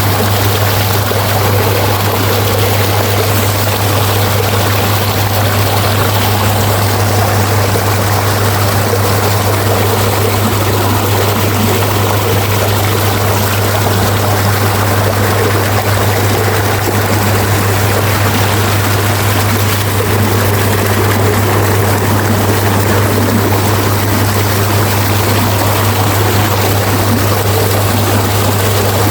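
Running water flowing steadily in an irrigation channel, an even rushing noise, over a constant low hum.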